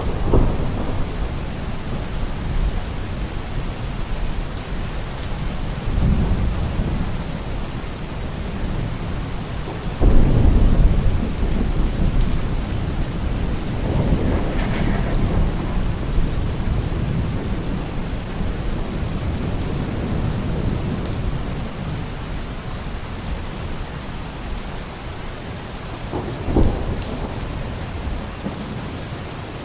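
Steady heavy rain with rolls of thunder swelling up several times, the loudest about ten seconds in and a sharper one near the end.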